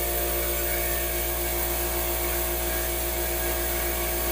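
Shop vac and air compressor running together: a steady motor drone with hum, the air assist and smoke extraction for a laser cut.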